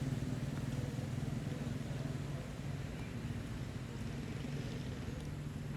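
A motor vehicle's engine running steadily, a low hum that eases slightly midway and comes up again near the end.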